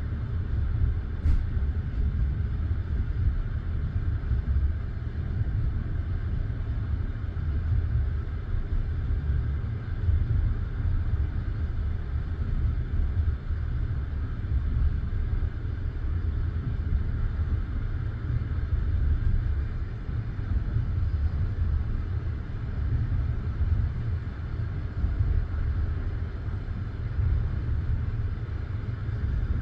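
Passenger train carriage running at speed, heard from inside: a steady low rumble of the wheels on the rails, with no distinct wheel clacks standing out.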